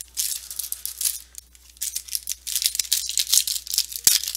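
Rustling and crinkling of foil trading-card pack wrappers and the stiff chrome cards being handled as the next pack is opened, in irregular bursts with a short lull about a second and a half in.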